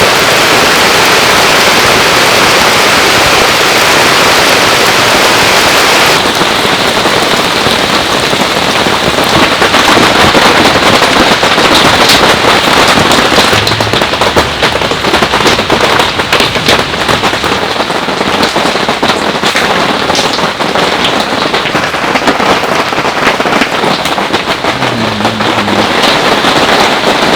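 Heavy downpour: dense rain pattering and crackling as drops strike close by, with a sudden change in tone about six seconds in.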